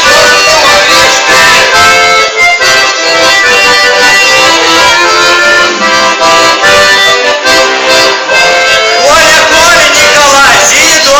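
Accordion music: a tune played in held, layered chords.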